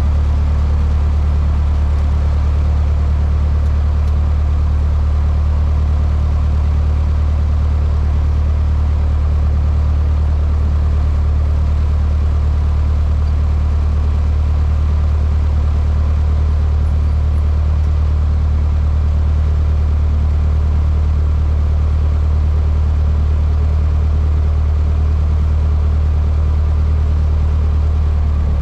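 Cessna 152's four-cylinder Lycoming O-235 engine and propeller heard from inside the cockpit: a loud, steady drone that does not change.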